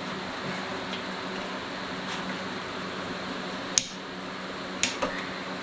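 Steady hum of a workshop fan, with two sharp clicks about a second apart near the end as tools or metal parts knock together during engine disassembly.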